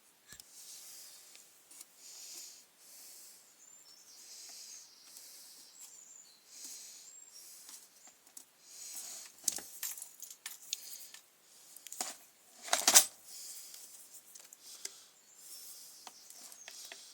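Small handling noises of trimmer parts and tools being worked by hand: scraping and rubbing with scattered clicks, and a sharp knock about two-thirds of the way in.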